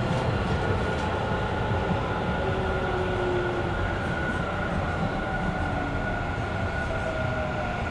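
Interior running sound of a Tobu 50000-series electric commuter train: a steady rumble of wheels and running gear, a steady high tone, and a fainter motor whine that slowly falls in pitch as the train slows.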